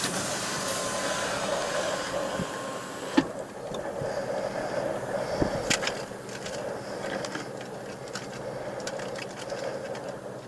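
Vehicle running, heard from inside the cab: a steady engine and road hum with a few sharp knocks or clicks, one about three seconds in and another near the middle.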